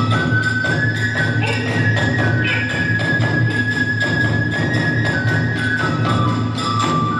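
Kagura hayashi ensemble playing: a bamboo transverse flute holds and steps between high notes over a steady beat of drum strikes and small hand cymbals, about three strokes a second.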